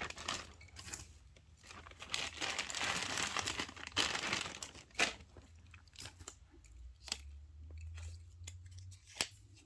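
Packaging rustling and crinkling as a piece of costume jewelry is unwrapped and handled, with a few sharp clicks.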